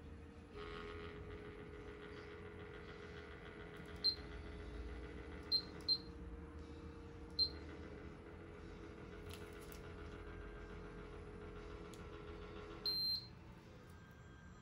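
IRIS Ohyama PCF-SDC15T circulator fan running with a steady motor hum that starts about half a second in, with four short electronic beeps from its controls and a longer beep near the end, when the hum stops.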